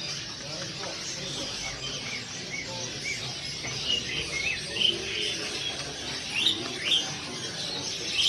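Caged songbirds at a bird market chirping and calling, many short chirps one after another over a steady background din of other birds.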